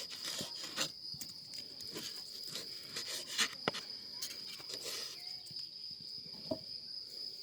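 Crickets chirring in one unbroken high-pitched drone, with scattered sharp clicks and knocks over it; the loudest clicks come a little past the middle.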